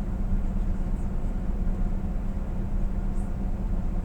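Steady low engine drone and road noise heard inside a moving vehicle's cab.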